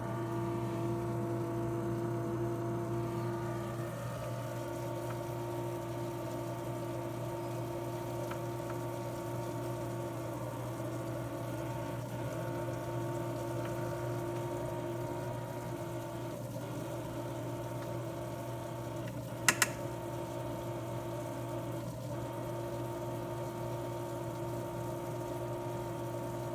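A steady mechanical hum made of several held tones, with a low drone underneath; one of the middle tones drops out briefly a few times. Two sharp clicks come close together about twenty seconds in.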